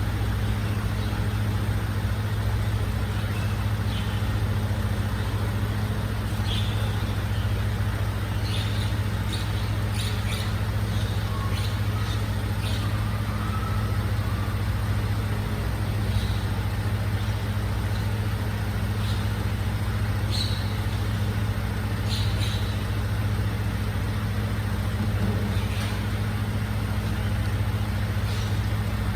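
Recycling truck's diesel engine idling steadily, with scattered short clinks and knocks over it.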